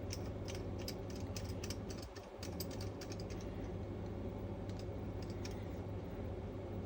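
A quick run of light clicks that thins out about three seconds in, with a few more clicks around five seconds, over a steady low hum.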